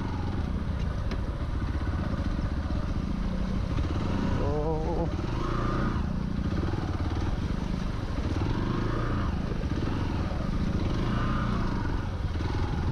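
Hero Xpulse 200's single-cylinder engine running steadily as the motorcycle is ridden, heard from on board.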